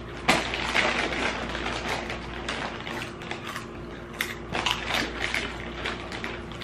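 Two people chewing crunchy Flamin' Hot Cheetos, a dense, irregular crackle of crunches.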